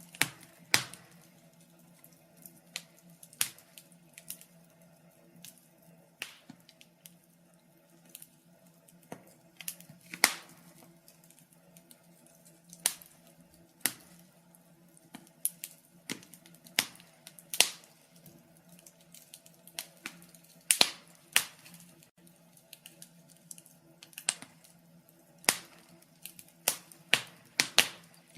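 Wood fire crackling: irregular sharp pops and snaps, about one or two a second and some much louder than others, over a faint steady low hum.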